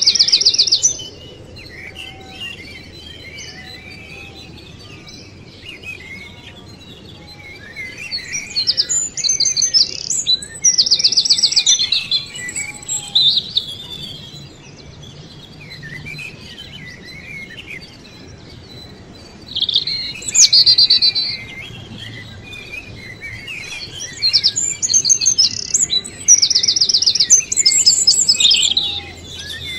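Small songbirds chirping and singing, with several loud bursts of fast high trills and softer twittering in between.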